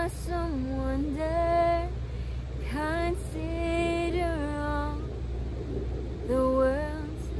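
A woman singing a cappella in three phrases of long held notes, sliding between pitches, with short breaths between the phrases.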